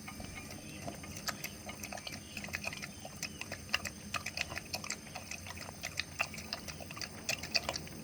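Kai Ken dog eating food with milk poured over it: irregular wet chewing and lapping, a quick run of small clicks and smacks.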